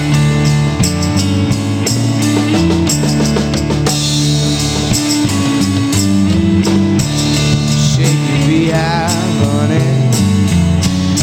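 Rock music: an instrumental passage with drum kit and guitars playing a steady beat.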